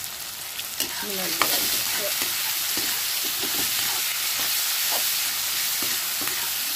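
Chopped onions and chillies with spices sizzling in hot oil in a steel kadhai, stirred with a perforated steel spatula that clicks and scrapes against the pan at irregular moments. The sizzle gets louder about a second in and then holds steady.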